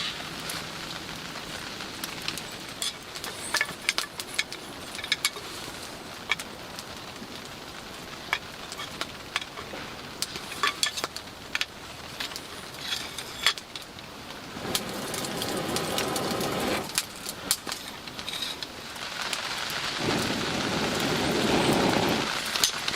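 Steady rain falling, with a campfire crackling in many sharp clicks and pops. Twice in the second half a louder rushing noise swells for about two seconds, then stops.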